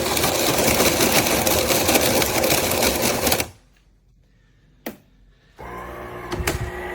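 De'Longhi TrueBrew coffee maker's built-in conical burr grinder grinding coffee beans for the first brew, then stopping abruptly about three and a half seconds in. After a click, the machine starts a lower, steady hum with a faint tone near the end, and there is another click.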